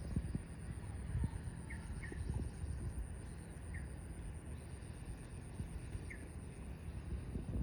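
Outdoor meadow ambience: a low rumble with scattered soft thumps and rustles, short high chirps every second or two, and a steady thin high whine. No mooing is heard.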